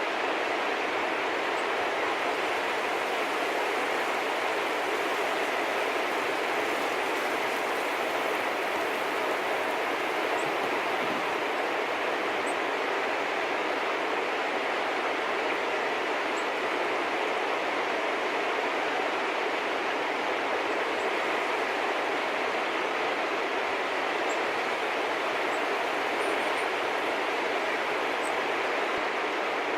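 A steady, even rushing noise, with a small bird chirping faintly a few times.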